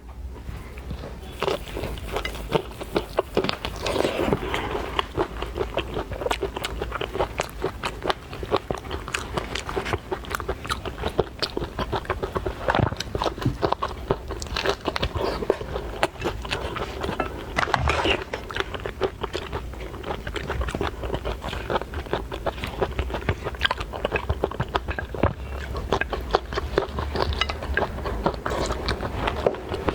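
Close-miked mouth sounds of someone biting and chewing soy-marinated tiger prawn: a dense, uneven run of wet clicks, smacks and small crunches.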